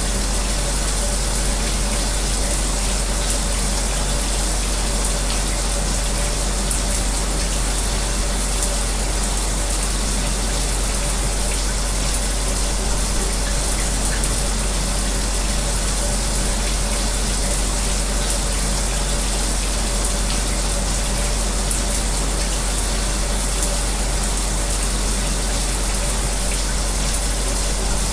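A shower running steadily, an even hiss of falling water, mixed with an electric fan's constant whir and faint hum.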